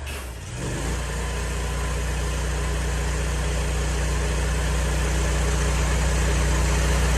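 Pressure washer engine running steadily under the hiss of the high-pressure water spray. It comes up about a second in and grows slowly louder.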